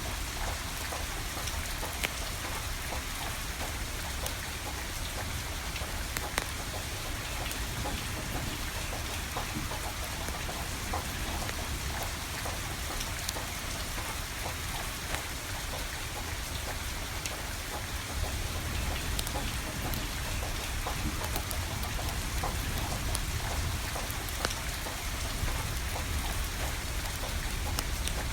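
Steady rain falling, with a handful of sharp crackles and pops from a burning wood fire scattered through it.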